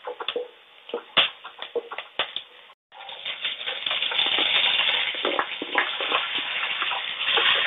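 Spatula scraping and tapping in a kadhai of onion, green chilli and curry leaves frying gently in oil. After a brief dropout about three seconds in, a louder, steady sizzle with many small clicks as the fried vegetables are tipped from a plastic bowl into the hot oil with a spoon.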